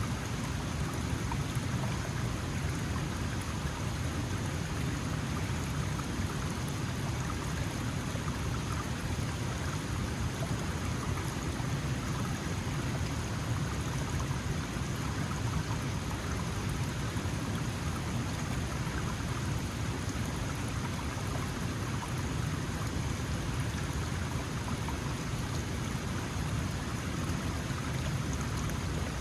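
Small mountain stream flowing and splashing steadily, a constant rushing babble of water.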